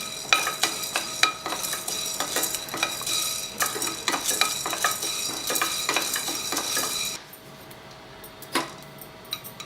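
Black peppercorns roasting in a pan, stirred with a spoon: scraping and rattling with many sharp clicks as the peppercorns begin to crackle, the sign they are roasted enough. The stirring stops about seven seconds in, leaving a faint hiss and one last click.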